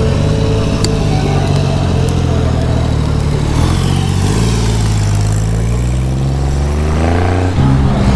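A vehicle engine running and revving, its pitch dropping and climbing, with a long rise in revs from about four to seven seconds in.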